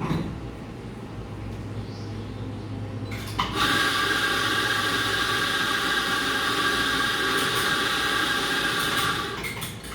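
Espresso machine steam wand steaming milk: a loud, steady hiss with a high screeching tone that starts about three and a half seconds in and cuts off near the end.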